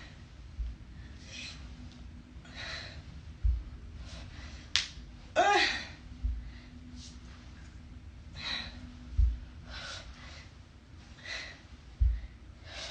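A woman breathing hard in a steady rhythm while exercising, about one breath every second and a half, with a low thud about every three seconds. A little before the middle there is a sharp click, then a short groan.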